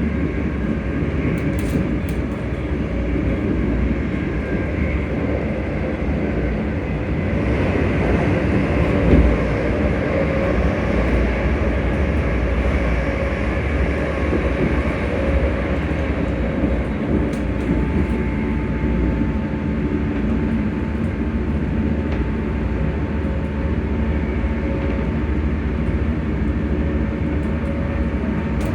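ScotRail Class 385 electric multiple unit's traction motors humming, heard from inside the carriage over the rumble of the train running on the rails, with several steady tones held throughout. A further steady tone joins about two-thirds of the way in.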